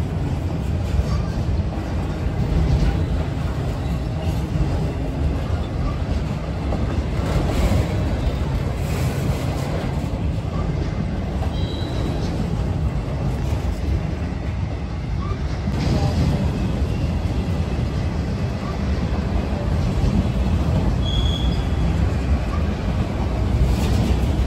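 Long freight train of autorack cars rolling past close by: a steady low rumble of steel wheels on rail. Two brief high squeals come through, about halfway and near the end.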